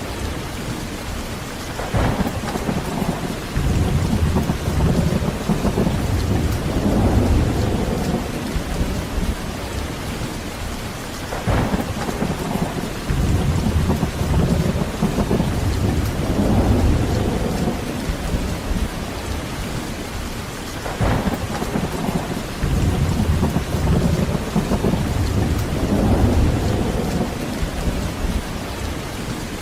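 Heavy rain falling steadily, with rolling thunder. Three times, about every nine seconds, a sharp crack is followed by a low rumble that swells and fades over several seconds.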